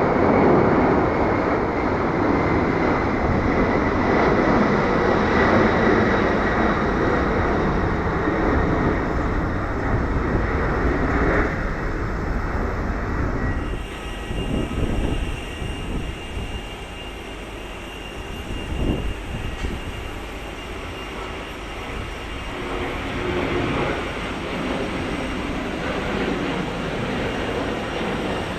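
Jet airliner engines at takeoff power: a steady loud roar from a FedEx MD-11F's three engines, then, after an abrupt change about halfway through, a quieter Boeing 737-800 takeoff with a thin high engine whine that builds toward the end.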